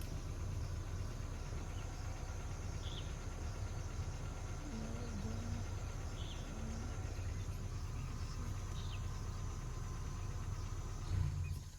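A vehicle engine idling steadily, with a faint insect drone and a few short bird chirps over it; the engine sound stops abruptly near the end.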